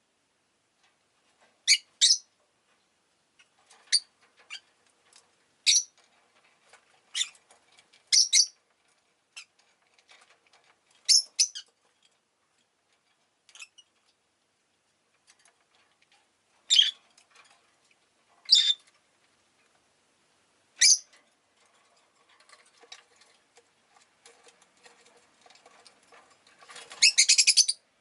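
Rosy-faced lovebirds giving short, sharp chirps every second or two, with a louder run of rapid calls near the end.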